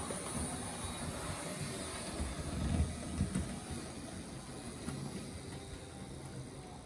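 Märklin model locomotive running on model railway track: a steady rumble of motor and wheels with irregular light clicks over the rail joints. It grows gradually fainter towards the end.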